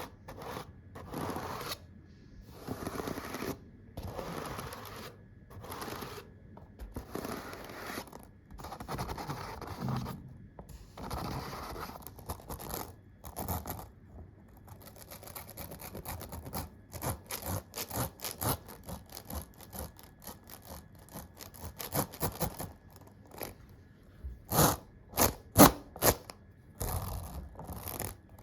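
Close-miked scraping strokes, roughly one a second, through the first half, then a fast run of sharp clicking taps on keyboard keys, with a handful of much louder clicks near the end.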